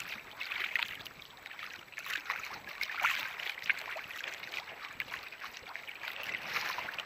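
Water splashing and trickling along a sailing boat's hull as it moves, many small irregular splashes.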